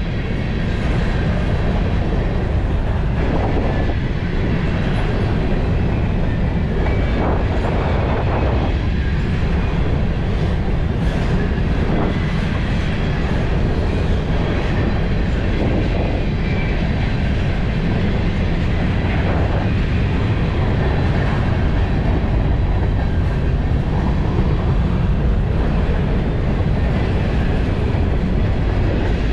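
Freight train rolling past: a steady, loud rumble of the cars on the rails.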